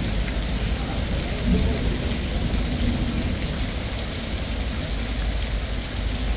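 Heavy rain and hail pouring down in a steady downpour, with scattered sharp ticks of impacts over a constant low rumble.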